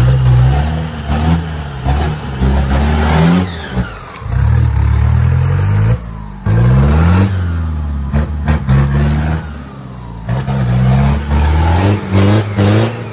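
4x4 vehicle's engine revving hard in repeated surges, its pitch climbing and dropping again and again, with a few sharp knocks near the middle and toward the end.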